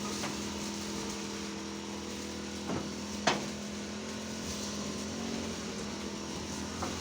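A motor running steadily, with two sharp knocks about three seconds in.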